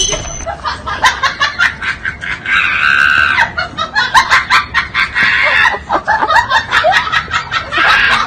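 Squeaky, high-pitched cartoon voice sounds, laughing or squealing, over a fast run of short clicks.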